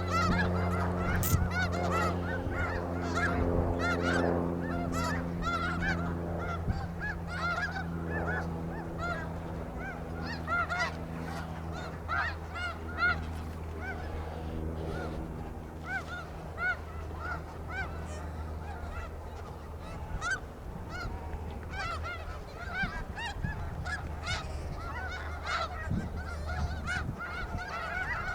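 A large flock of snow geese calling, with many short, high, overlapping honks throughout. A low steady hum sits underneath and fades over the first several seconds.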